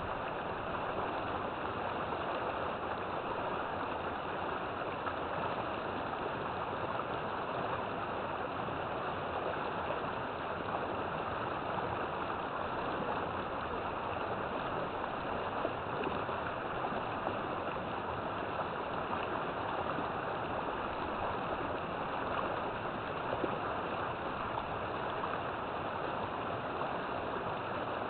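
River water flowing steadily over rocks, a continuous rushing with no change throughout.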